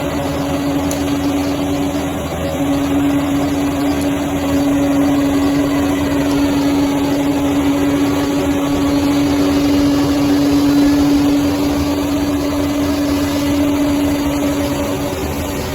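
Bulldozer's diesel engine running steadily, with a constant hum that holds one pitch over the rumble of the machine, briefly dipping about two seconds in.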